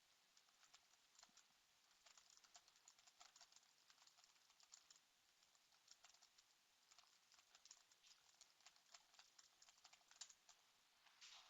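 Faint typing on a computer keyboard: quick, irregular key clicks in runs with short pauses, and a short hiss near the end.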